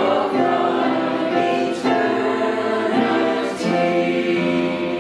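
Church congregation singing a hymn together, moving through sustained notes with a final chord held from a little past three and a half seconds in.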